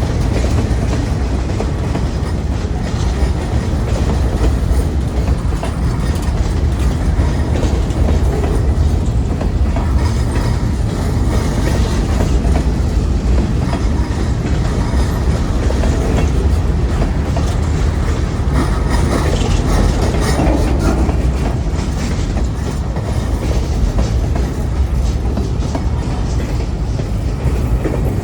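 Freight train rolling past close by: a steady rumble with a run of wheel clicks and clacks over the rail joints.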